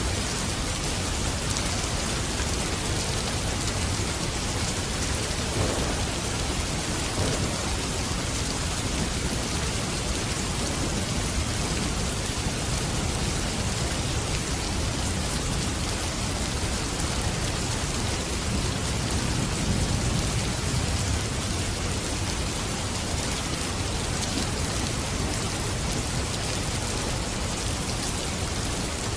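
Steady rain falling, with a low rumble of thunder swelling about two-thirds of the way through.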